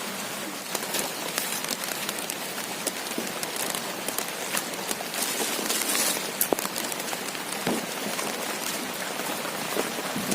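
Heavy rain falling steadily, with many sharp individual drop hits close to the microphone.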